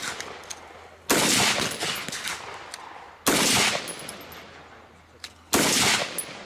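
Three gunshots about two seconds apart, each sudden and loud with a long fading echo after it.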